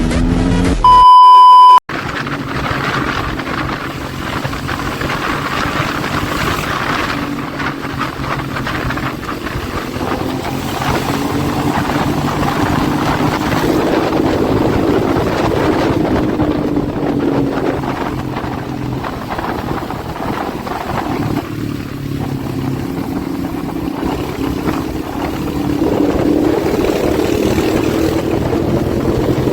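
Motorcycle engine running while riding, its revs slowly rising and falling. A loud, steady beep tone cuts in for under a second about a second in.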